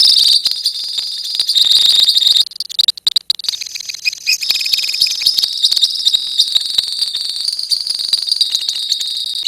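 A colony of lovebirds calling together in long, fast, shrill trills (the chattering 'ngekek' song), with a brief break about two and a half seconds in.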